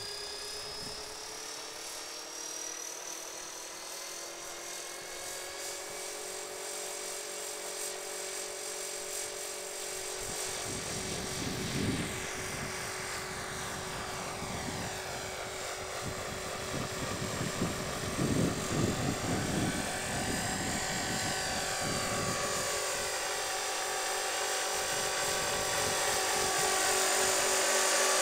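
Electric RC helicopter (Align 450 Sport) whining as its rotor spools up, rising in pitch at first, then flying with the pitch of the whine swooping up and down as it manoeuvres. From about ten seconds in, low gusty buffeting is mixed in.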